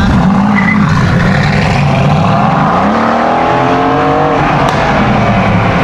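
A car engine accelerating hard, its revs climbing steadily for about two seconds before dropping off suddenly as the throttle is released, over a low engine rumble.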